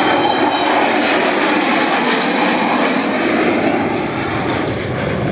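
Avro Vulcan jet bomber's four jet engines during a low display pass, a loud, steady jet noise that eases off slightly about four seconds in.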